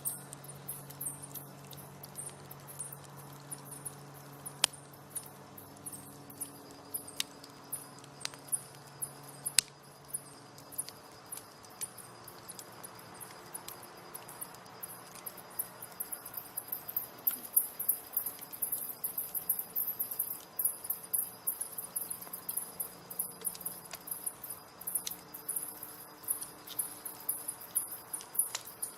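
Crickets chirping in a fast, steady rhythm, growing louder and denser past the middle, over an open campfire crackling with a few sharp pops in the first half.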